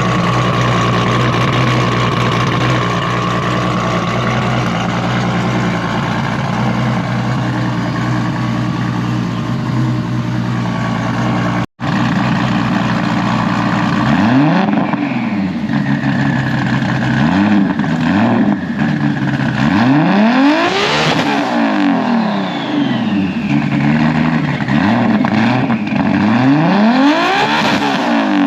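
Toyota Supra engine on E85 running on a chassis dyno. For about the first ten seconds it holds a steady drone, then after a brief cut the revs climb and fall back again and again, several sweeps up and down.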